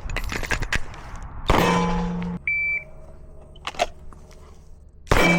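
9mm Glock 45 pistol shots and sharp knocks, with a loud report about one and a half seconds in and another near the end. A short high electronic beep comes a little over two seconds in.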